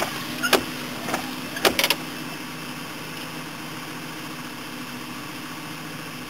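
Car engine running steadily, with a few sharp clicks in the first two seconds.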